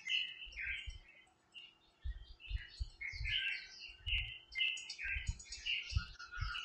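Birds chirping in quick, repeated short calls, with scattered low thuds and a few faint clicks.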